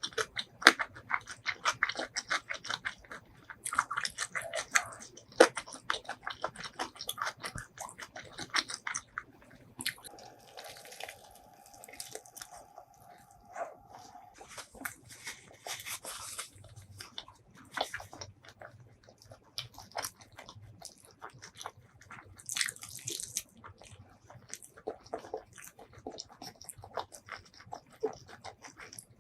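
Close-miked eating: a person chewing and biting, with many sharp, crunchy bites packed together in the first ten seconds and sparser chewing afterwards.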